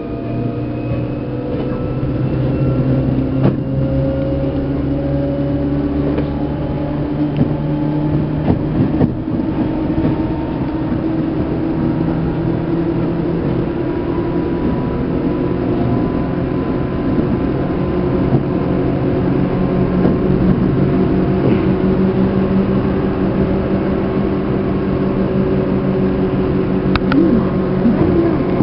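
Running sound of a Seibu New 2000 series electric train, heard inside motor car MoHa 2291: steady traction motor and gear whine that rises slowly in pitch as the train gathers speed, over the rumble of the wheels, with a few short knocks from the track.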